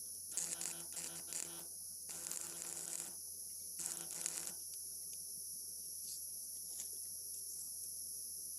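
Electric welding arc buzzing and crackling in three short bursts in the first half, then only a steady high hiss.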